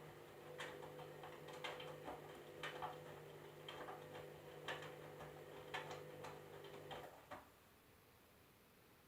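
Candy washing machine motor humming as the drum turns, with sharp clicks and knocks roughly once a second. The hum and clicks stop about seven seconds in, leaving near silence.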